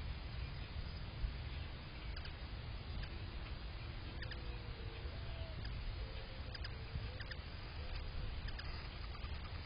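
Faint, short bird chirps scattered irregularly over a steady low rumble, with a few brief held notes in the middle.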